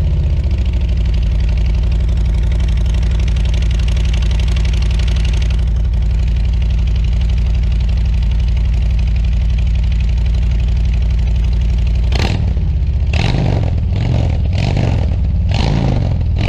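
Harley-Davidson Street Glide Special's Milwaukee-Eight V-twin idling steadily just after a cold start following a week unridden. About twelve seconds in, the throttle is blipped, giving a run of about six quick revs.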